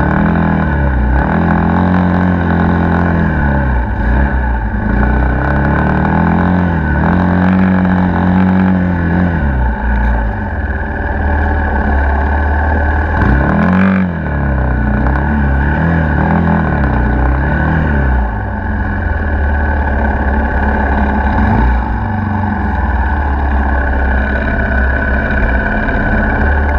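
Dirt bike engine revving up and down in repeated swells, then running more steadily through the latter part.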